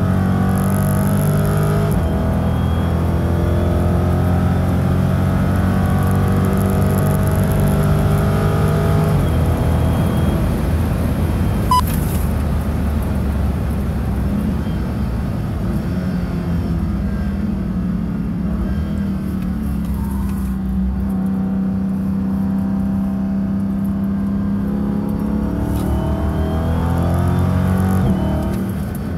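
A 2015 Dodge Charger SRT 392's 6.4-litre HEMI V8, heard from inside the cabin as the car is driven hard on track. The engine note climbs repeatedly through the gears, rises once more near the end and then falls away. There is one sharp click midway.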